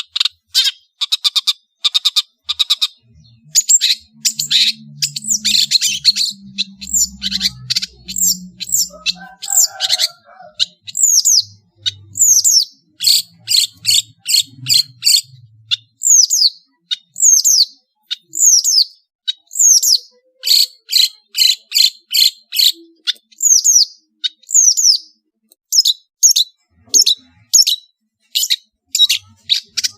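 Long-tailed shrike (cendet) singing vigorously and without pause: rapid runs of sharp, high notes and falling whistles in quick succession, a varied song.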